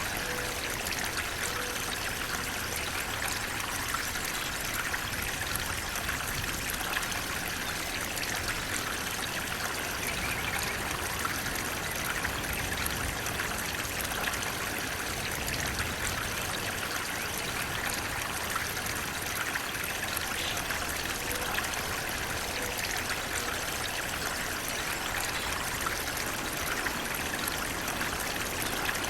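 Flowing water running and trickling steadily, an even, continuous splashing wash.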